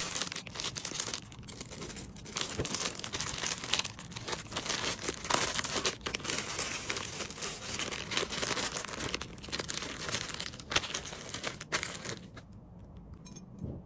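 Packaging crinkling and rustling as items are handled and packed, a dense crackle with many small clicks that dies down near the end.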